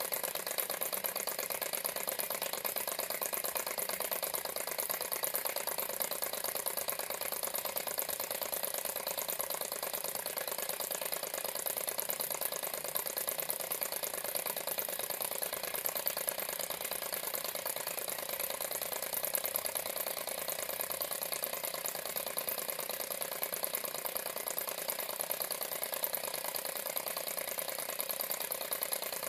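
Model Stirling engine running steadily on its alcohol burner, its moving parts making a fast, even mechanical clicking rattle.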